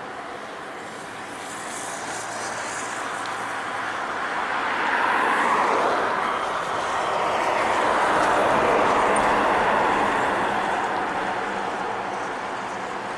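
Trucks passing on the highway: engine and tyre noise builds, peaks about five and a half seconds in with a falling pitch, then swells again around eight and a half seconds and fades.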